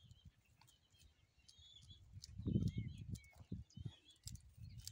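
Faint bird chirps, short and gliding, scattered throughout, with a low rumble on the microphone that peaks about halfway through.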